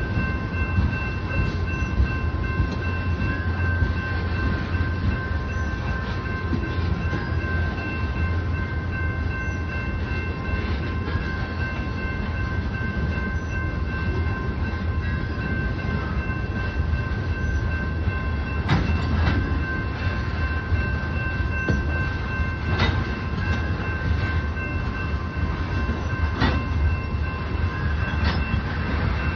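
Tank cars of a Union Pacific oil train rolling past, a continuous low rumble of wheels on rail with a steady high whine over it. A few sharp clanks sound in the second half.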